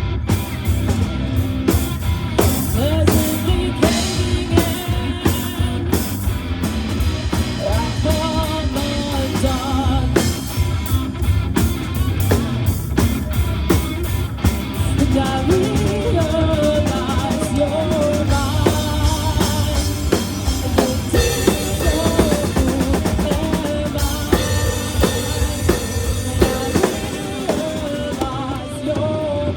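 Live rock band playing: drum kit, guitar and bass in a steady groove, with a wavering melodic line over the top.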